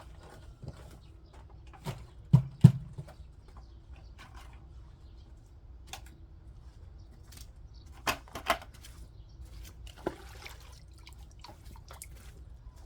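Dull thuds of a garden tool striking soil: a loud pair about two seconds in, another pair around eight seconds, and a single one near ten seconds, with fainter knocks and scrapes between.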